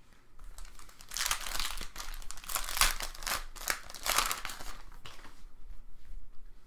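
Crinkling and crumpling of a foil trading-card pack wrapper being torn open and handled, in several rustling bursts over a few seconds.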